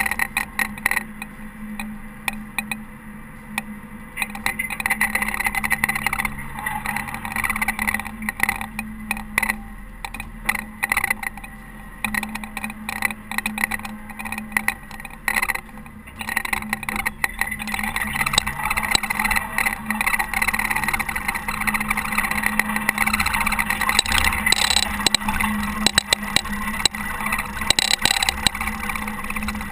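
Caterpillar TH330B telehandler's diesel engine running steadily, with frequent clicks, knocks and rattles over it as it works a snowplow.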